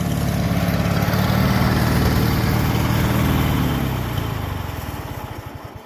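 Riding lawn mower's small engine running steadily, then shut off about four seconds in; it winds down through slowing, separate firing pulses to a stop.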